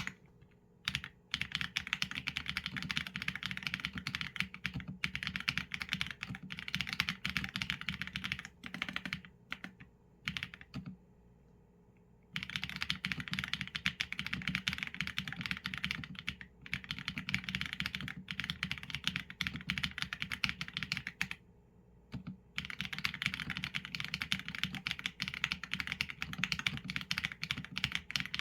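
Steady fast typing on a Qsenn A75 mechanical keyboard with Leobog Graywood v4 linear switches and PBT keycaps: dense runs of keystroke clacks, broken by a pause about a third of the way in and a shorter one about three quarters through.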